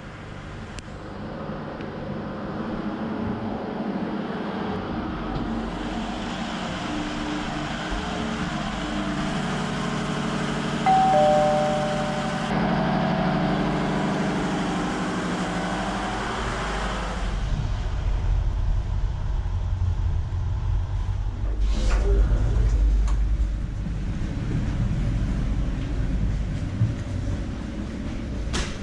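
Ship's engine room machinery running with a steady mechanical drone and hum. A short pair of tones sounds about eleven seconds in, and after about seventeen seconds the noise turns to a deeper, heavier rumble.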